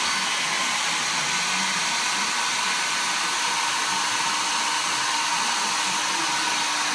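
Hand-held hair dryer blowing steadily, its fan and airflow making an even rushing noise, held at food in a cup to heat it.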